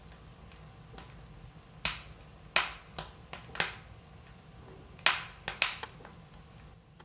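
Wood fire in an open fireplace crackling: irregular sharp pops and snaps over a low steady rumble, two clusters of louder pops about two and a half and five seconds in.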